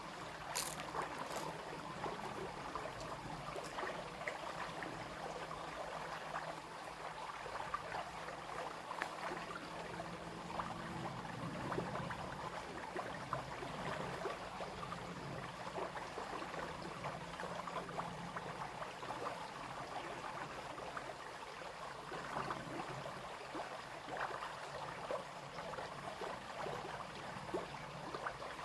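Small brook flowing and babbling, a steady splashing with many small gurgles. A faint low hum sits under it during the first half.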